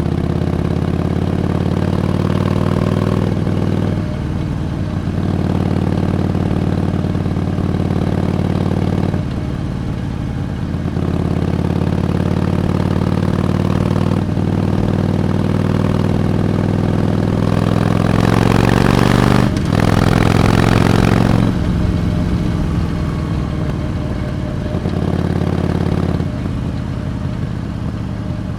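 Harley-Davidson Iron 883's air-cooled V-twin engine running on the move. The throttle eases off around four and ten seconds in. From about eighteen seconds in there is a harder pull with rising pitch, cut by a brief break, before it settles lower again.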